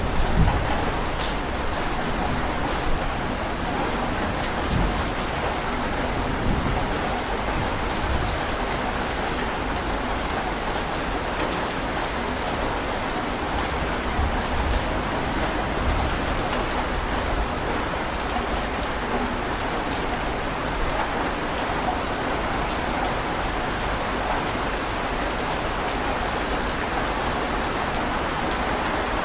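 Heavy rain falling steadily, a dense even hiss of drops, with the last of a low thunder rumble dying away in the first second or so.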